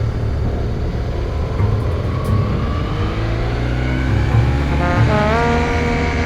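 Motorcycle engine running on the move over a heavy low wind rumble. From about three seconds in, the engine note rises in pitch, then levels off near the end.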